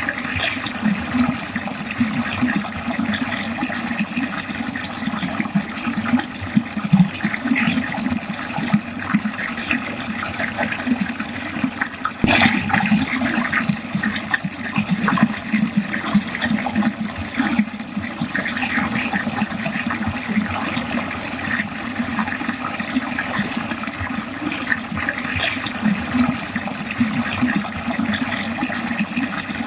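Water flowing steadily down a drain, an even continuous rush with one brief sharp sound about twelve seconds in.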